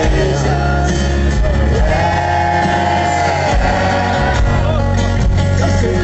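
Rock band playing with a singer, steady bass and guitar underneath; a long note is held from about two seconds in for over a second before the melody moves on.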